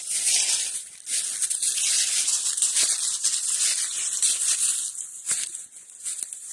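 Footsteps crunching and rustling through dry leaf litter on the forest floor, in an uneven walking rhythm, briefly easing about a second in and again near the end.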